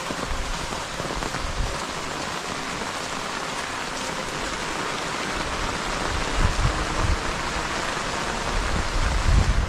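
Steady rain falling, a dense even hiss, with irregular low rumbles that grow stronger over the last few seconds.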